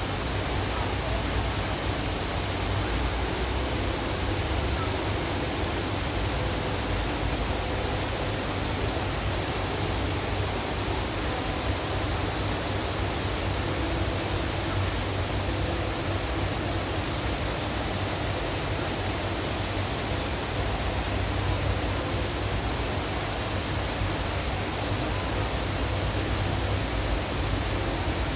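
Waterfall pouring, a steady, unchanging noise of falling water.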